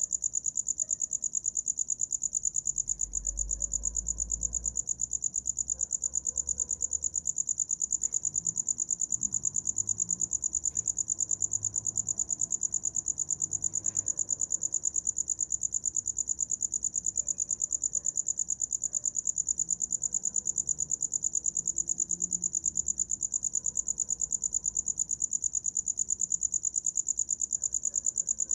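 A cricket chirping without a break: a high-pitched trill of rapid, evenly spaced pulses that holds steady throughout.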